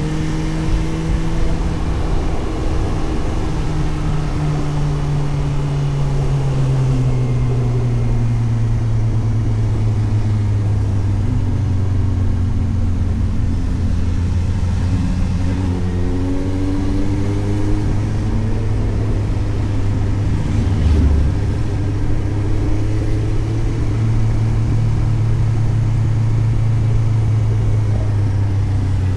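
Suzuki GSX-S750 inline-four engine heard onboard while riding. Its pitch drops slowly over the first several seconds as the revs come down, then holds steady. The revs change around the middle, and the engine runs steadily again toward the end.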